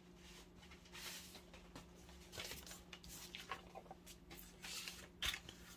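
Faint rustling and handling of paper, with a few short soft scrapes and taps, over a low steady hum.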